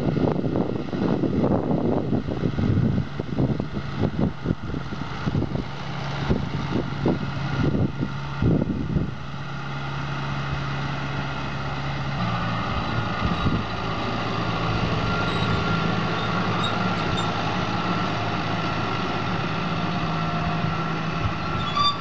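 John Deere 6125R tractor engine running steadily, with rough gusty noise over it for the first several seconds. About halfway through the engine note shifts and evens out, and a faint higher whine joins it.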